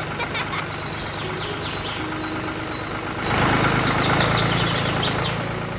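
Tractor engine running with a steady, pulsing low hum, growing louder and fuller about three seconds in before easing back near the end; short high chirps sound over it.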